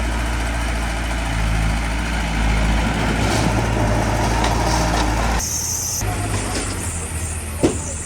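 Heavy diesel engine of earth-moving machinery running steadily. The sound changes abruptly a little over halfway through, and there is one sharp knock near the end.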